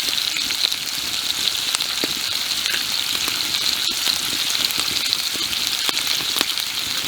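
Pork belly sizzling and spitting as it fries, a steady hiss with scattered crackles and pops.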